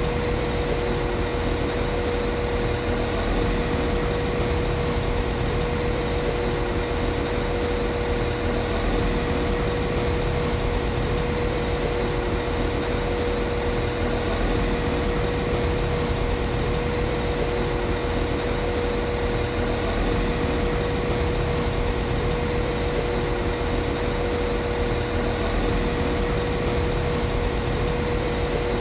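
Diesel engine of a Class 195 CAF Civity diesel multiple unit idling steadily, with an even rumble and a constant high hum held throughout.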